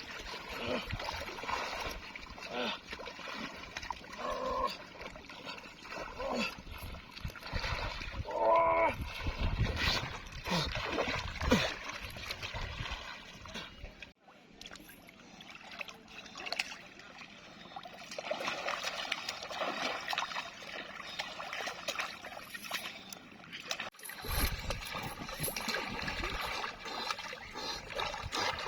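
Water splashing and trickling as people work in a river, with voices calling now and then. The sound breaks off abruptly twice, about halfway through and again near the end.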